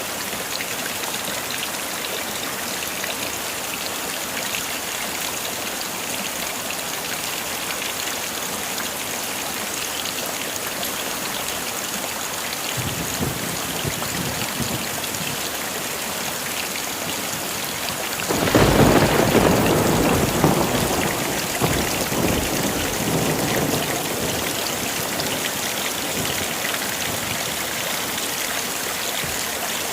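Heavy rain falling steadily. A low rumble of thunder comes in about 13 seconds in, then a loud thunderclap about 18 seconds in rolls away over several seconds.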